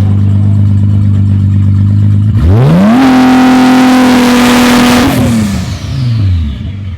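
A tuned car's engine idling steadily, then revved up sharply about two seconds in, held at high revs for about two seconds, and let fall back to idle.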